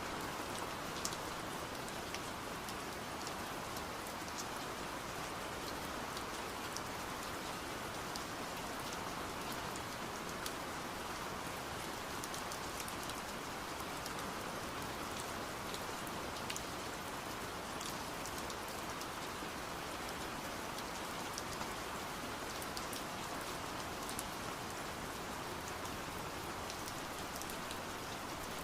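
Steady rain, an even hiss, with scattered sharp taps of drops striking window glass.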